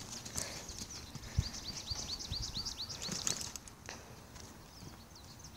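A small songbird singing a quick run of high, down-slurred whistled notes, about five or six a second, then a few more near the end, over a low outdoor rumble with a few soft thumps.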